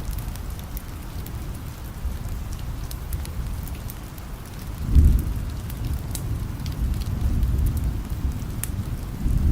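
Steady rain with a low rumble of thunder that swells about five seconds in and dies away, over scattered small sharp ticks.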